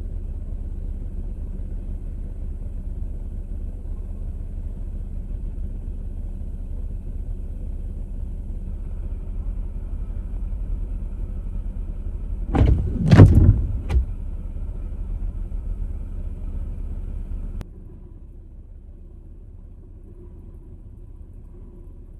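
Jeep Wrangler running with a steady low rumble. Three loud bangs come about halfway through, and a few seconds later the rumble drops suddenly to a quieter hum.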